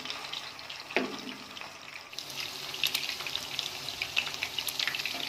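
Beef seekh kababs shallow-frying in hot oil in a frying pan, sizzling with fine crackles. A single sharp click about a second in comes from the tongs as the kababs are turned onto their second side.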